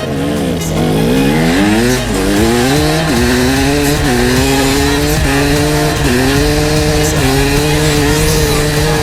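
Street motorcycle engine accelerating hard and shifting up through the gears: the pitch climbs and drops back sharply at each shift, about five times, then holds steady revs near the end.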